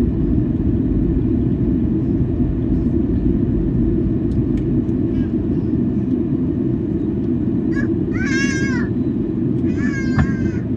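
Steady low roar of engine and airflow noise inside the cabin of a Boeing 737-800 in flight. About eight seconds in, a young child lets out two high-pitched cries, a couple of seconds apart.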